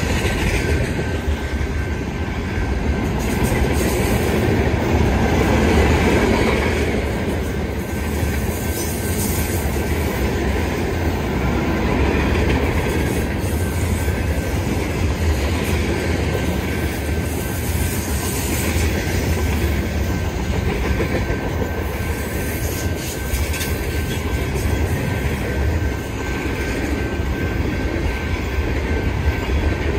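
Freight cars (covered hoppers, tank cars and boxcars) rolling past close by: a steady noise of steel wheels running on the rails.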